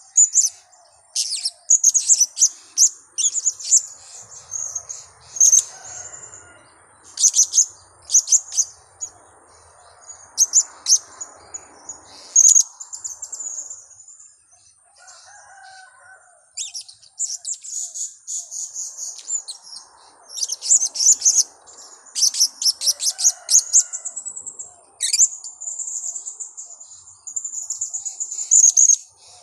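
Blue-crowned hanging parrots (serindit) calling: runs of short, sharp, very high-pitched chirps, dense and rapid in places, with a lull about halfway through.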